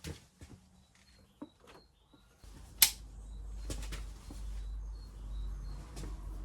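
Several sharp clicks and knocks of hand tools at work, the loudest a single hard click about three seconds in. Faint bird chirps come and go throughout, and a low steady hum starts just before the loudest click.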